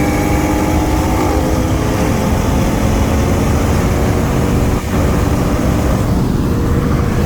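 Car engine accelerating, its pitch climbing slowly and then dropping twice in the first two seconds as it shifts up, under heavy wind and road noise.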